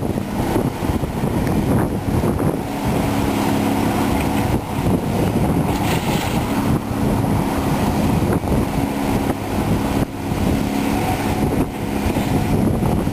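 Cat 345B excavator's diesel engine working under load, with a steady pitched tone that rises in for a second or two at a time, several times over. Scattered knocks and clatter run through it, typical of demolition debris being dug and dumped.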